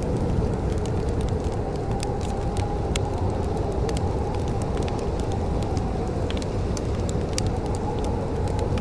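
Wood fire crackling in a fireplace, with frequent sharp pops and snaps over a steady low rumble.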